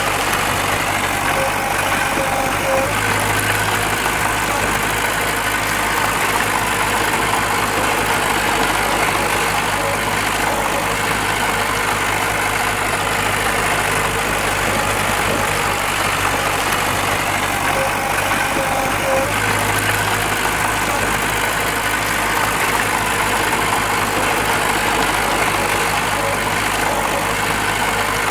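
Diesel engine of heavy earthmoving machinery running steadily at a constant level, with no sudden changes in speed or load.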